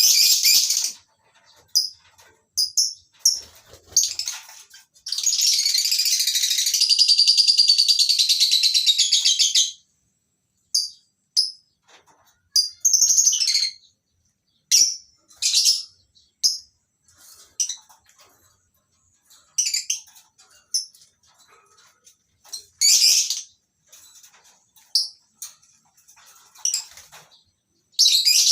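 A colony of lovebirds calling: short, shrill chirps come in scattered bursts, with one continuous bout of chattering about five seconds in that lasts around five seconds.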